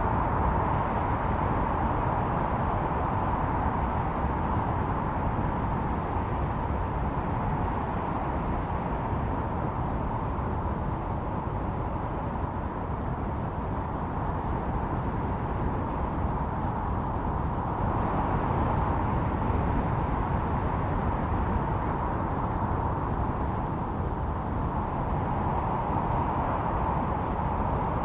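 Blizzard wind: a steady low rumble with a howling tone that swells and fades in slow gusts, strongest about a second in, around the two-thirds mark and again near the end.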